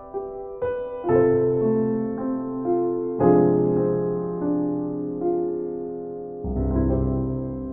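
Slow, gentle solo piano music: single notes and sustained chords that ring and fade, with fresh low chords struck about a second in, around three seconds in, and again near the end.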